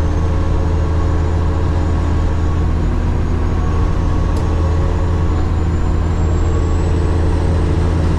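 Semi-truck's diesel engine and road noise heard from inside the cab while cruising at highway speed: a steady low drone.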